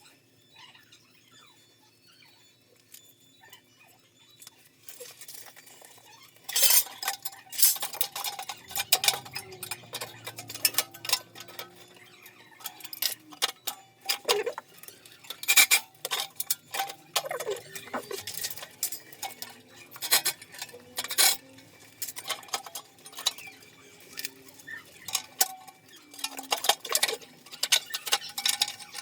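Hand tools and metal pipe fittings clinking, tapping and rattling in irregular bursts during heating-pipe repair work, starting about six seconds in after a quiet stretch.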